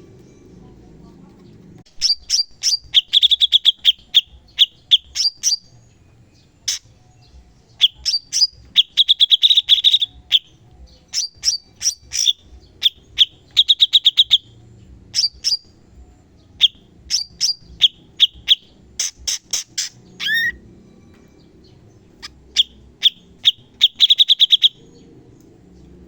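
Cucak cungkok singing a fast, piercing song: phrase after phrase of sharp chirps and rapid high trills, the 'tembakan' (shots) that bird keepers prize. The song starts about two seconds in and stops shortly before the end.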